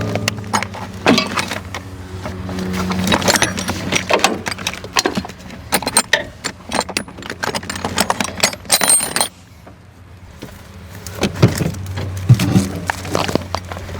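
Repeated metallic clinks and rattles, as of tools or parts being handled, over a steady low hum. The clinking stops for about two seconds late on, then starts again.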